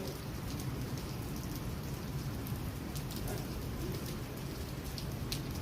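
Monsoon rain falling steadily, with a few sharp drip clicks standing out.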